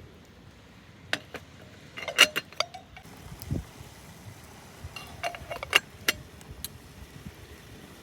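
A few sharp clicks and knocks of hard objects handled, in two short clusters, with a dull thud between them.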